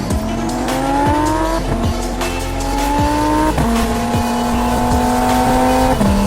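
Turbocharged Audi R8's engine accelerating hard through the gears. The pitch climbs, then drops suddenly about every two seconds at each upshift, three times.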